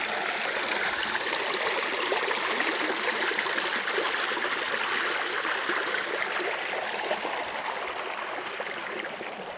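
Steady rushing of running water, fading slightly near the end.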